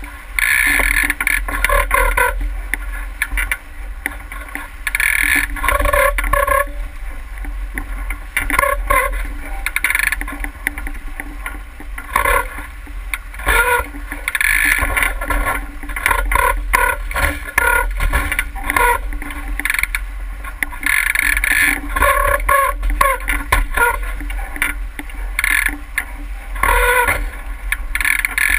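Water splashing and rushing against a sailing boat's hull in uneven surges, over a steady low rumble of wind on the microphone.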